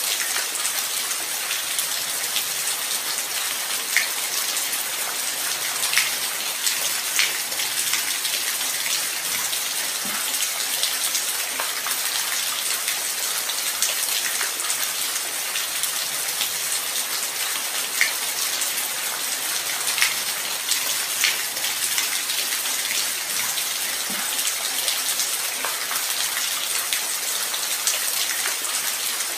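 Steady light rain: an even hiss with scattered individual drops ticking out, at a constant level.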